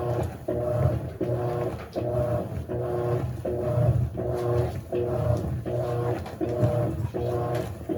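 Electrolux LAC16 washing machine agitating: a short, whining motor hum repeats evenly about every three quarters of a second as the wash stroke goes back and forth.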